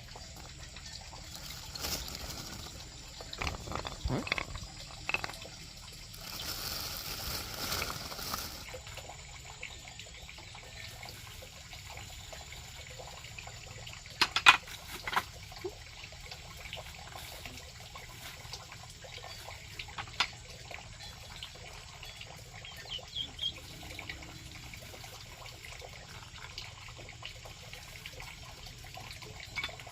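Water trickling and splashing, with a few sharp knocks; the loudest knock comes about halfway through.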